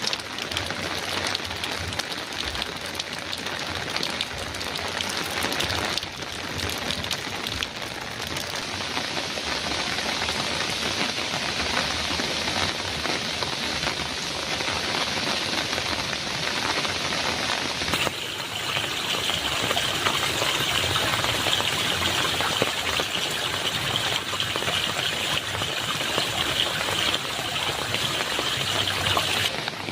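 Heavy rain drumming on a metal roof, a dense steady downpour. The sound changes abruptly about six seconds in and again a little past halfway, turning brighter and hissier.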